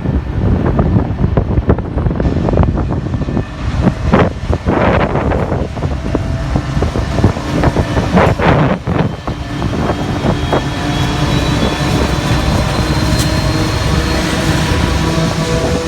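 Freight train hauled by two NR class diesel-electric locomotives passing, a heavy steady rumble, with wind buffeting the microphone in the first half and steady whining tones coming in about two-thirds of the way through.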